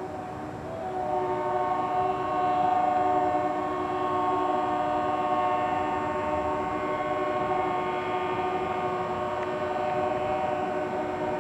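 Diesel locomotive air horn, a GMD GP40-2LW's, sounding one long continuous chord. It dips briefly at the start and comes back strongly about a second in.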